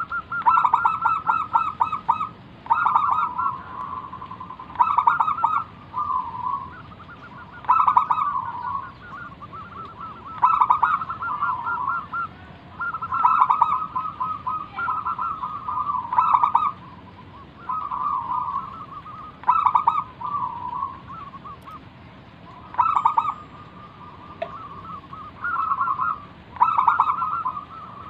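Zebra dove (perkutut) singing its full song, over and over: rapid rolling, stuttering coo phrases, one every two to three seconds.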